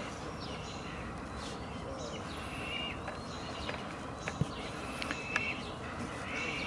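Small birds chirping and calling, with several short held whistled notes, over steady outdoor background noise. Two sharp clicks about four and five seconds in.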